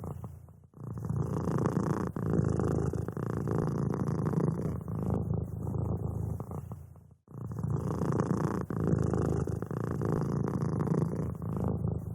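Domestic cat purring steadily close up, a fast low rumble that breaks off briefly about a second in and again about seven seconds in as the cat breathes.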